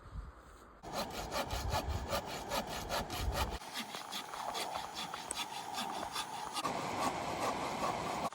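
Hand saw cutting through wood with quick, even back-and-forth strokes, starting about a second in.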